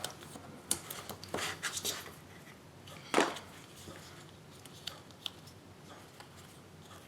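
Paper and double-sided tape being handled on a craft table: scattered light taps and rustles, then a short rasp about three seconds in, the loudest sound, as the adhesive is applied and its liner worked off.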